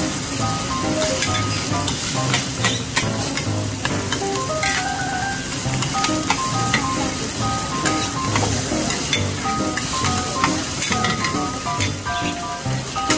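Cubes of radish cake and egg sizzling in hot oil on a large flat iron wok, with metal spatulas scraping and tapping the pan. Soft background music with short melodic notes runs underneath.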